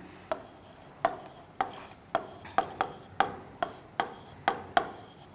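A pen writing out a sum on a hard surface: about a dozen short sharp taps, roughly two a second, with light scratching between them.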